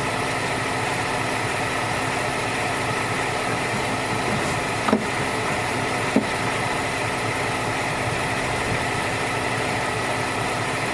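BMW X5 E70's engine idling steadily, with two short knocks about five and six seconds in.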